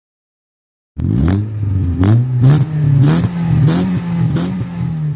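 Car engine revving in repeated throttle blips, with a sharp crack about every half second or so; it starts abruptly about a second in.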